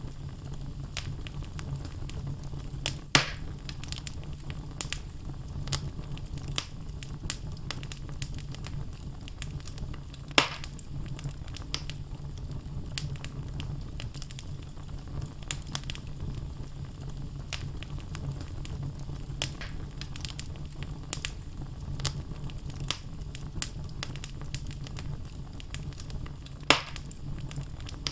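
Wood logs burning in a fireplace, crackling steadily over a low rumble of flame, with three louder sharp pops spread through.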